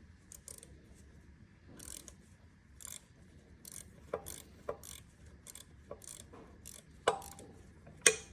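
Hand tools working on metal engine parts: irregular light clicks and scrapes, with four sharper metallic clinks that ring briefly, the loudest near the end.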